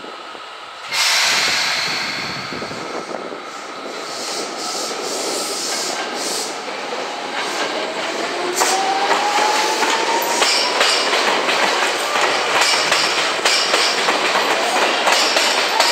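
Seibu 2000-series electric train pulling away from the platform. A sudden loud hiss comes about a second in, then wheels click over the rail joints and a whine rises slowly as the train gathers speed.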